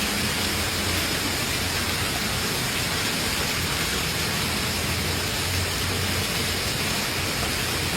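Heavy thunderstorm rain falling steadily, a dense, even rush with no single hits standing out.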